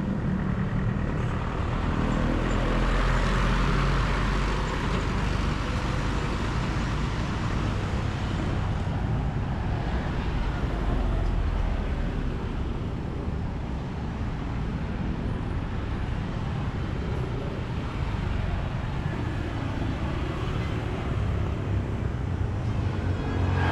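Road traffic: a steady engine rumble with vehicles passing, swelling and fading twice.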